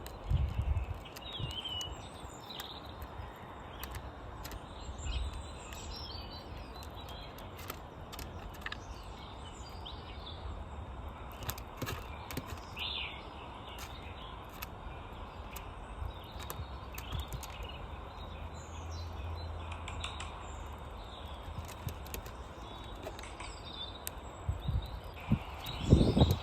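Small birds chirping in short scattered calls over a steady outdoor background hiss. Sharp clicks are scattered throughout. A few low thumps or rumbles come just after the start and again, loudest, near the end.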